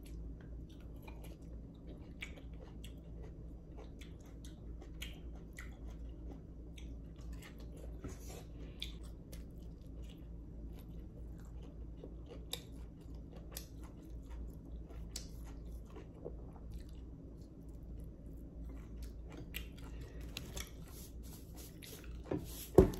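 Close-miked chewing and biting of boiled bitter gourd and rice, with many small wet mouth clicks over a steady low hum. A single sharp knock sounds just before the end.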